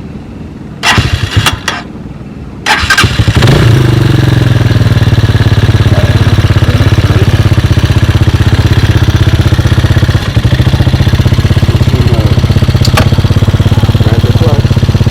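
Hawk 250 dirt bike's single-cylinder engine being started: two brief sputters, then it catches about three seconds in and settles into a steady, loud idle with a throttle blip or two.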